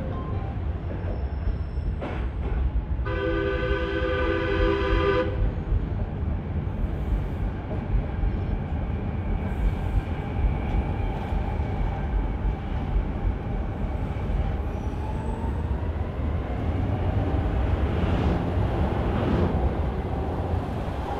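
Train running on rails with a steady heavy rumble. A multi-tone train horn sounds once for about two seconds a few seconds in. A faint whine slowly bends in pitch through the middle.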